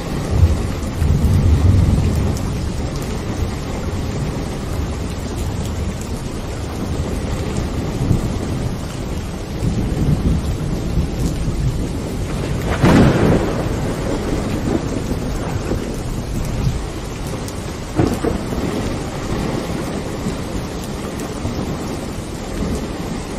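Steady rain with thunder: a low rolling rumble in the first couple of seconds, a sharper thunderclap about halfway through, and a shorter clap a few seconds later.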